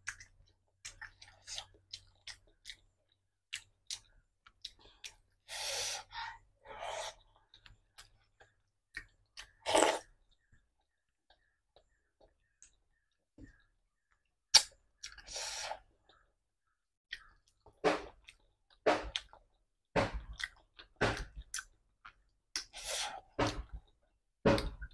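A person chewing and smacking their lips on mouthfuls of rice and curry eaten by hand: a scattered run of short, wet mouth clicks and smacks, with a quiet pause about halfway through.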